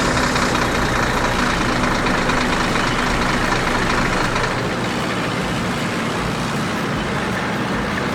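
A heavy farm machine's engine running steadily with a low hum, starting abruptly.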